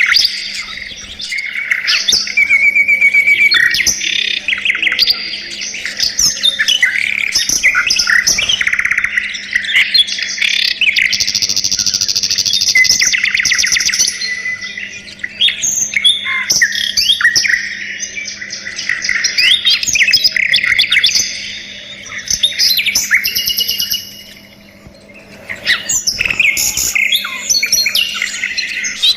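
A flock of budgerigars chattering and warbling in dense, overlapping chirps, with a brief lull a few seconds before the end.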